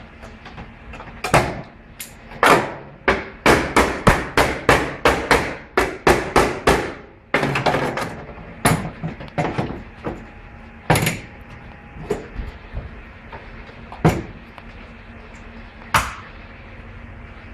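Repeated hammer blows: a quick run of about three strikes a second, then scattered single strikes.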